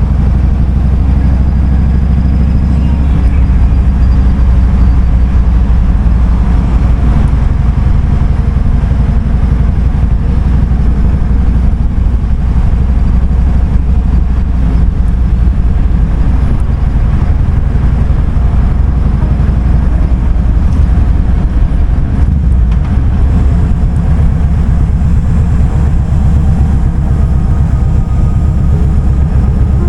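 Kawasaki Vulcan 2000's big V-twin engine running at low, steady revs, with no rise or fall in pitch.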